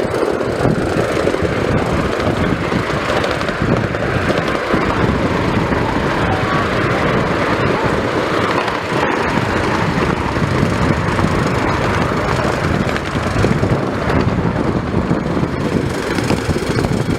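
Train in motion: a loud, steady rumble and rattle of the running train.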